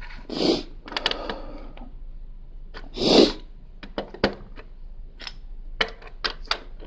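Small plastic Lego pieces clicking and tapping as they are handled and pressed together, in quick irregular clicks that come more often in the second half. There are two louder rustling bursts, about half a second and three seconds in.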